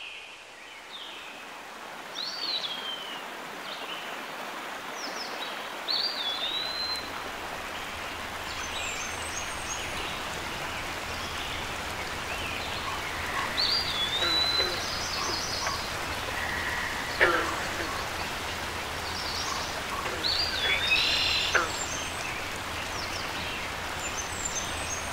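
Several birds singing over a steady background hiss, fading in at the start. One whistled phrase that swoops up and falls away recurs every few seconds among other shorter chirps and trills.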